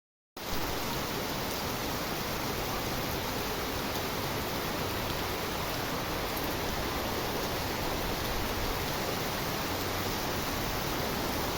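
A steady, even rushing noise that cuts in abruptly about half a second in and holds at one level throughout.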